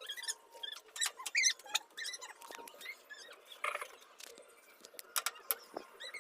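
Washing machine drum squeaking and clicking in short, irregular bursts, the noise of the drum problem.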